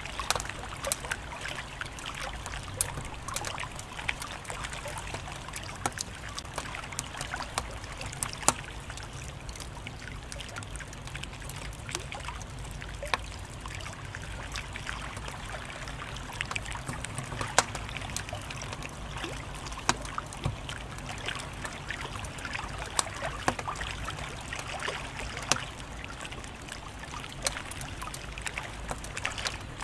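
Fireplace fire crackling: a steady low hiss and rumble with frequent, irregular sharp pops and snaps.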